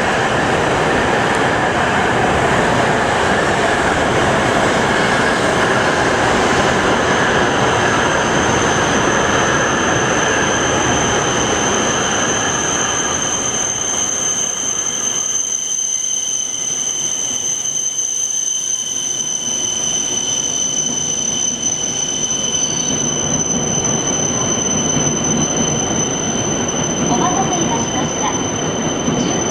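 Shinkansen train pulling into a station platform: loud rushing and rumbling that dies down about halfway through as it slows, with steady high-pitched whining tones held over it, then the running noise builds again near the end.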